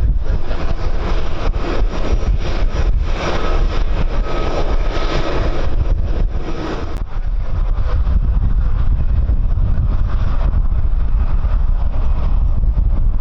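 Jet aircraft engine roar, strongest in the first half with a faint turbine whine and fading about seven seconds in, over heavy wind buffeting the microphone.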